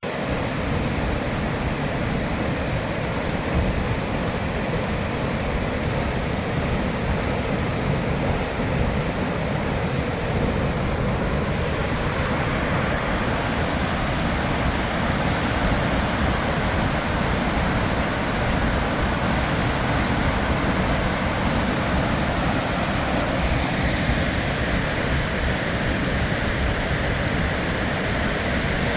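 Large waterfall roaring steadily, a dense unbroken rush of falling water.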